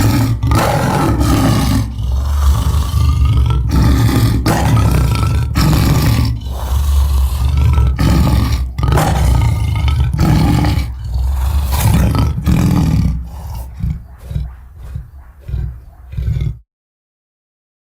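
Sound-effect lion roars and growls: a long run of deep roars, breaking into shorter, weaker grunts over the last few seconds, then cutting off abruptly near the end.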